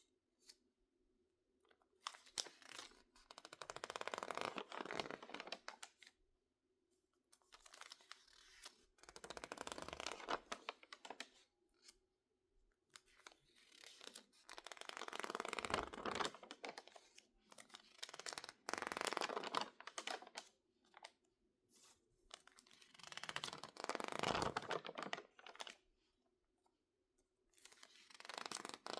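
Stiff, water-damaged magazine paper crinkling and crackling as the pages are handled and squeezed, in about six bursts of a few seconds each with short quiet pauses between.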